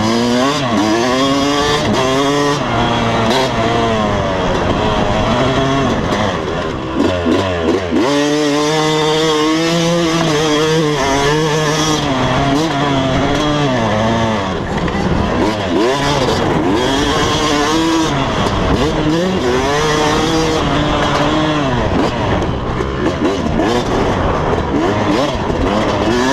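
Motocross dirt bike engine revving hard, its pitch climbing and dropping again and again as the throttle opens and closes and it shifts gears, with a brief drop in pitch and level about seven seconds in.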